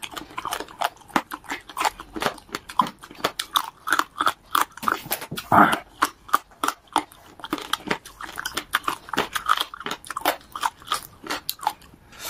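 A person chewing crunchy rib cartilage close to the microphone: an irregular run of sharp crunches, several a second, with soft wet chewing between them.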